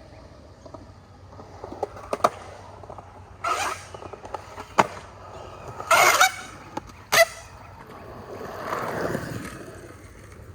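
Skateboard wheels rolling on concrete, with several sharp clacks of the board hitting the ground and two louder, rougher scraping bursts.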